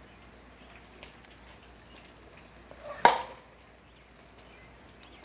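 A single sharp crack about three seconds in: a plastic wiffle ball bat hitting the ball. Under it is a faint, steady patter of light rain dripping.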